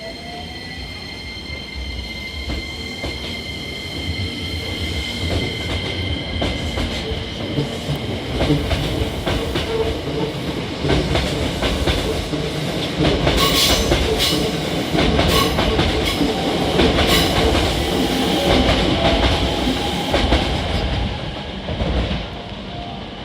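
Hankyu 9300-series electric train pulling out: a rising motor whine at first, then wheels clicking over rail joints and a growing rumble as the cars pass, loudest toward the end before dropping off.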